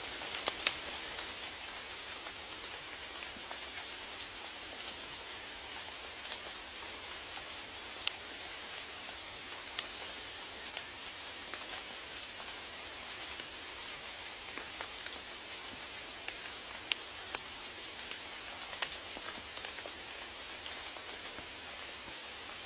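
Steady rainfall: an even hiss of rain with scattered louder single drops ticking on a surface, a few close together about half a second in.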